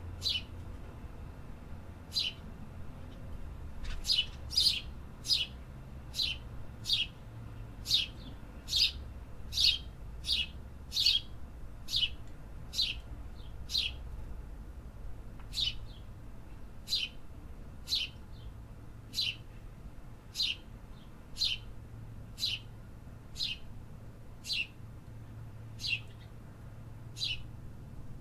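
A small songbird repeating a short, sharp chirp over and over, roughly one or two a second with brief pauses, each note dropping quickly in pitch. A faint low hum lies underneath.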